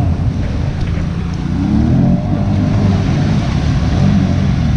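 Truck engines running and revving during water wheelies, a steady low rumble with the revs rising twice, about two seconds in and again near the end.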